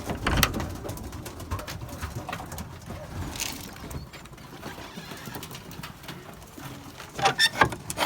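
Racing pigeons cooing in a loft, with scattered light knocks and clicks. A louder cluster of coos comes about seven seconds in.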